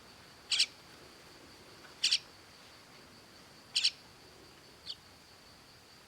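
A parrot giving short, sharp double-note calls, three about every one and a half seconds and a fainter one near the end, over a steady faint high whine.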